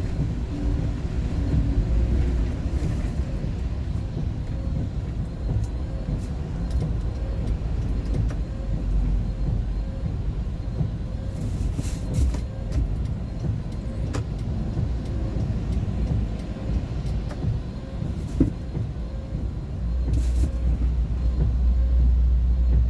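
Steady engine and road rumble of a moving vehicle heard from inside the cabin, with a few brief faint clicks.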